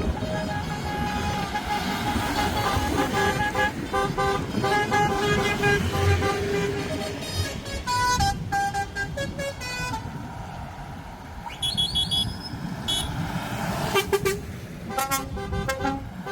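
Vehicle horns sounding in short, repeated blasts over a steady rumble of engines.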